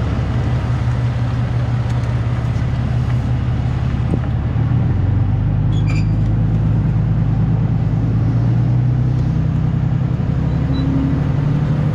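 Truck engine and road noise while driving, a steady low drone that shifts in pitch and grows a little louder about five seconds in.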